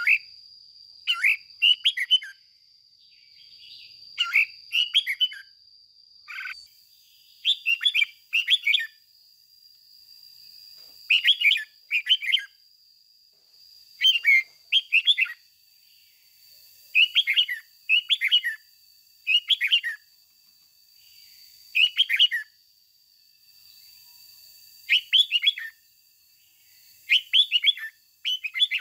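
Red-whiskered bulbul singing short phrases of a few quick notes, one phrase every second or two, with a faint steady high-pitched whine underneath.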